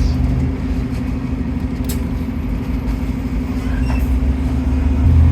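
Stagecoach London bus 36651 running, a steady low engine drone with a few short clicks and rattles; the low hum grows louder near the end.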